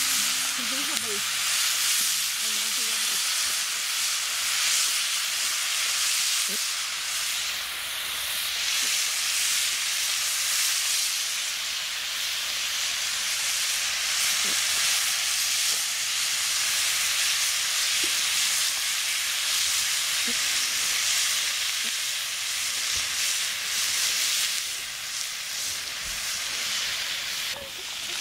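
Chopped vegetables and turkey kielbasa sizzling steadily in a cast iron skillet over campfire coals, with a few faint pops.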